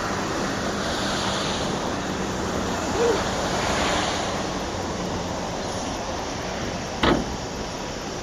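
Freight train rolling past: a steady rushing noise of wheels on rail that swells and then slowly eases. There is a short squeal about three seconds in and a sharp click near the end.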